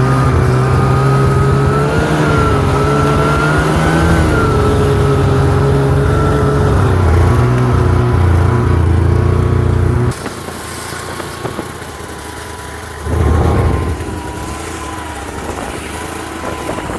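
Ski-Doo Tundra 550 two-stroke snowmobile engine running under throttle, its pitch rising and falling. About ten seconds in it cuts back sharply to a quieter steady run, with a brief louder surge of throttle a few seconds later.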